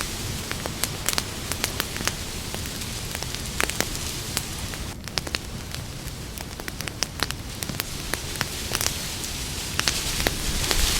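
Campfire crackling, with frequent irregular sharp pops and snaps over a steady hiss of burning wood.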